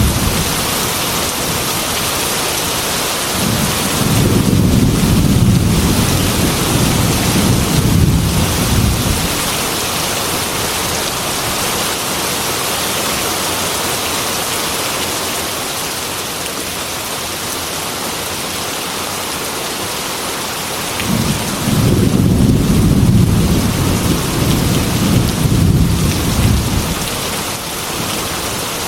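Heavy rain falling steadily as a dense hiss, with two long rolls of deep thunder rumbling through it, one a few seconds in and another near the end.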